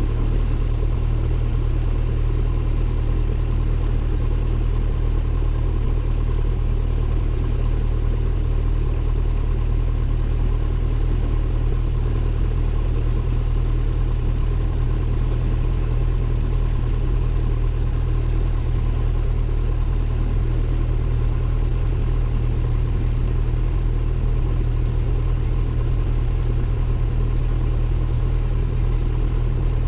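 Cessna 172N's four-cylinder Lycoming O-320 engine and propeller running at a steady, unchanging drone, heard inside the cockpit.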